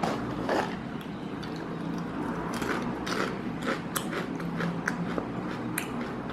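Someone crunching and chewing potato chips in the mouth, with irregular crisp crackles.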